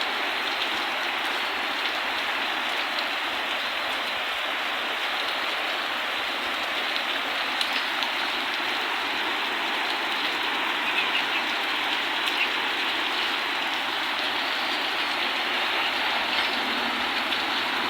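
Steady rain falling, an even hiss with a few louder drops here and there.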